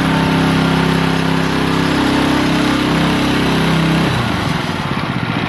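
Single-rotor concrete power trowel's engine running steadily during the first float pass over fresh concrete, then dropping toward idle about four seconds in, leaving a lower, pulsing run.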